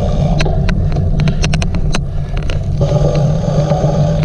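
Steady low rumble of riding a cyclocross bike at race pace, with irregular sharp clicks scattered through it, a dozen or so, several close together in the middle: the odd clicking noise that runs through the recording.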